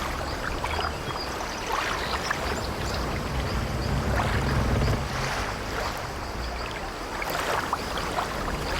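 Sea waves washing against an old wooden sailing ship, swelling every couple of seconds over a low rumble, with the light creak of the ship's timbers.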